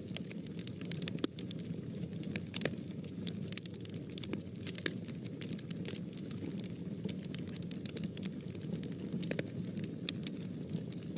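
Fire burning in a fireplace: a steady low rush of flame with frequent sharp crackles and pops scattered irregularly throughout.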